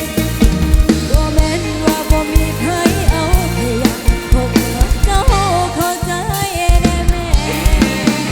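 Live band music: a drum kit keeps a steady kick-drum beat under a wavering lead melody.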